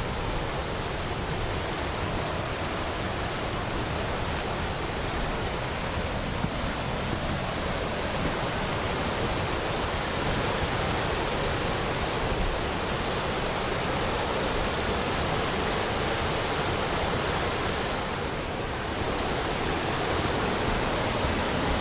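Avalanche Creek, a fast mountain creek, rushing steadily in a continuous roar of white water, dipping briefly near the end.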